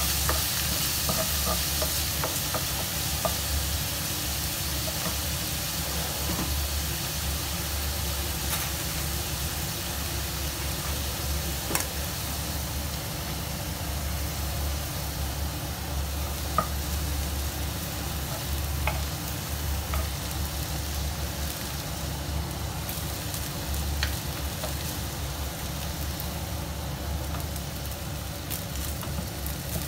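Diced meat frying in a nonstick pan: a steady sizzle, with a few sharp clicks and taps of utensils against the pan.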